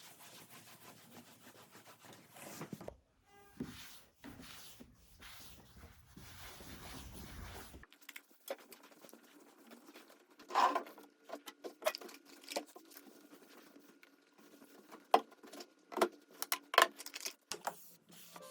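Quiet household handling sounds: soft rubbing and rustling, then a run of irregular light taps and clicks from about eight seconds in.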